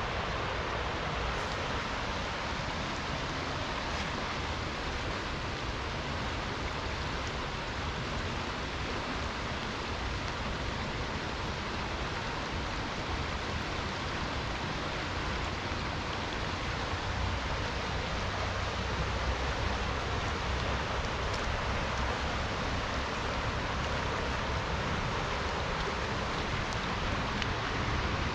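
Steady rushing of river water mixed with falling rain. The low rumble of the water swells slightly a little past the middle.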